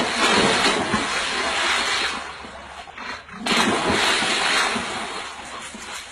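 Water rushing and splashing in two loud surges, each lasting about two seconds, with a short lull between them.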